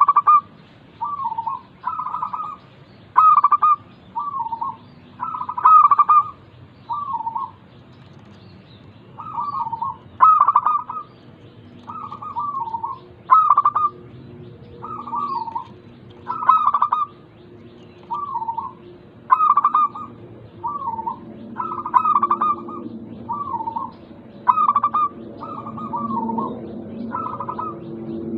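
Zebra doves (perkutut) cooing: a steady run of short rolling coo phrases, about one a second, some louder than others. This is a perkutut lure recording played to get a bird that is reluctant to sing to start calling. A faint low hum comes in under the calls in the last several seconds.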